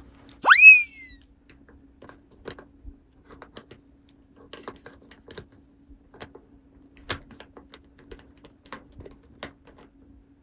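A short whistle-like cartoon sound effect that sweeps sharply up in pitch and falls back, followed by scattered light clicks and taps of small plastic toy pieces being handled.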